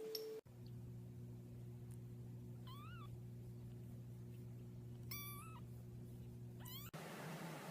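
A cat meowing in short calls, about three seconds in and again about five seconds in, over a steady low hum.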